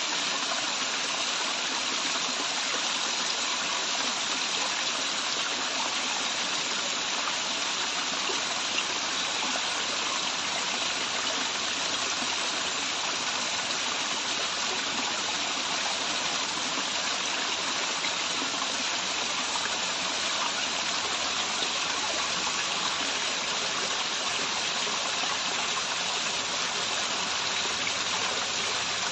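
Waterfall and stream water rushing steadily, an even hiss-like roar.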